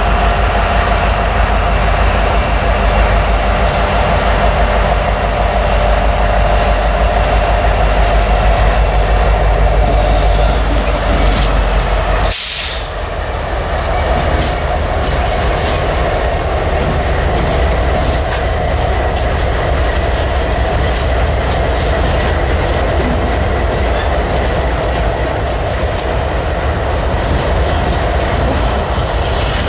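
A train running past on the rails: a continuous loud rumble and clatter of wheels, with a thin high wheel squeal that slowly falls in pitch. The sound breaks off briefly about twelve seconds in and then carries on.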